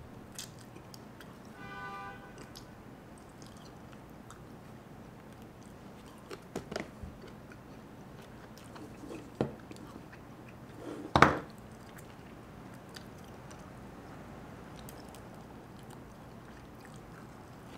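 A person eating fried chicken wings: quiet chewing and mouth sounds, with a few short sharp clicks and smacks, the loudest about eleven seconds in.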